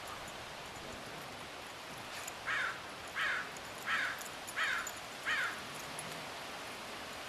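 A bird off in the distance gives five short calls in an even series, a little under a second apart, each falling in pitch.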